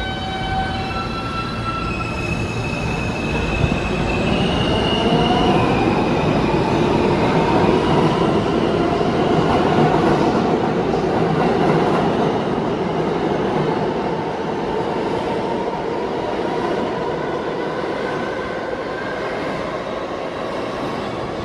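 New York City subway train running through an underground station: steel wheels squealing on the rails in shifting high tones over the first few seconds, then a heavy rumble that swells to its loudest mid-way and eases off toward the end.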